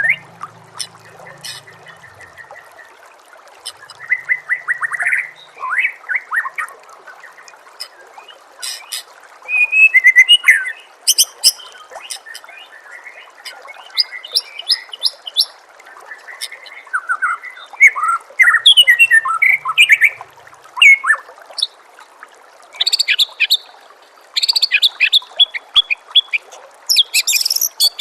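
White-rumped shama (murai batu) singing a varied run of phrases: clear whistles, quick trills and rapid strings of repeated notes, separated by short pauses, the loudest bursts about ten seconds in and near the end. A steady trickle of running water sounds underneath.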